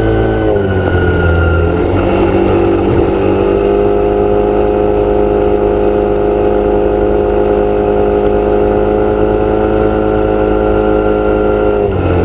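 An engine running steadily at a held speed, its pitch stepping down about half a second in, back up after about three and a half seconds, and down again near the end.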